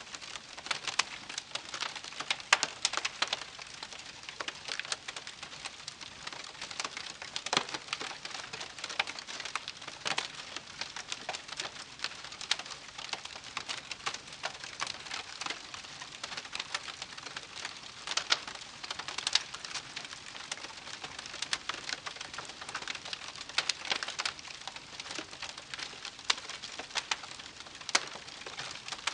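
Wood campfire crackling: a steady soft hiss with frequent irregular sharp pops and snaps.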